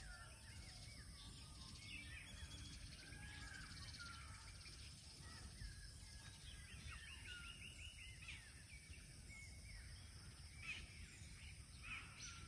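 Several birds faintly chirping and singing at once, a dawn-chorus mix of short whistled calls over a steady low background rumble. About seven seconds in, one bird gives a quick trill of repeated notes.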